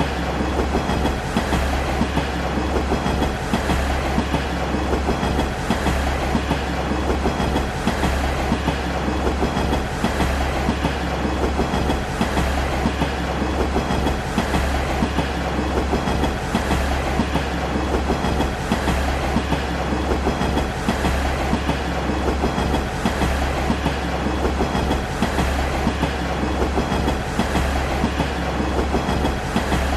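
Train running on the rails: a steady rumble with a regular clickety-clack of the wheels.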